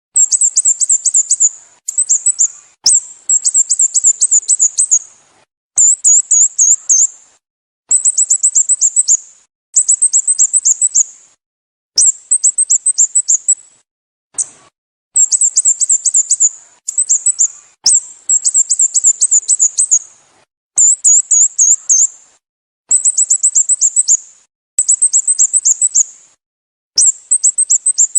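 Sooty-headed bulbul (Pycnonotus aurigaster) calling: rapid runs of high, sharp chirps, each run a second or two long, repeated over and over with short gaps between them.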